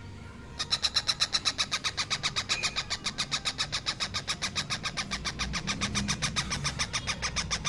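Baby parrot giving rapid, rhythmic begging calls while being fed, a fast pulsing chatter of about seven short high notes a second that starts under a second in.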